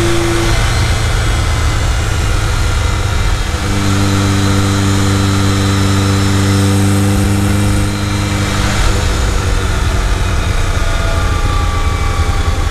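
Ferrari Dino 308 GT4's V8 engine running while the car is driven on the road, holding a steady drone for several seconds in the middle and easing slightly lower in pitch near the end, over a loud steady rush of wind and road noise.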